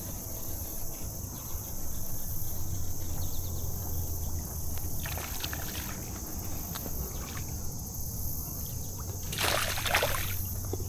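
Water sloshing and splashing as a hooked smallmouth bass is fought at the surface, with louder splashes about five seconds in and again near the end, over a steady trill of crickets.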